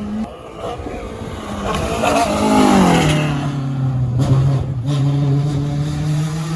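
A rally car's engine passing by at speed. It is loudest about two to three seconds in, where its pitch drops as the car goes past, and then it carries on as a steady lower engine note.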